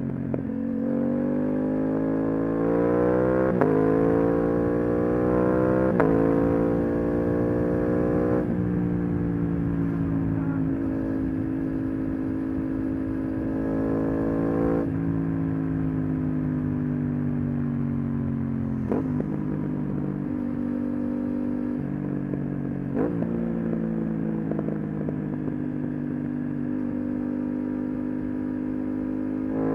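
Aprilia RS 660's 659 cc parallel-twin engine through an SC1-R aftermarket exhaust, accelerating hard with three quick quickshifter upshifts in the first nine seconds, each a sudden drop in revs. It then runs at a steady speed, eases off, and gives two short throttle blips later on.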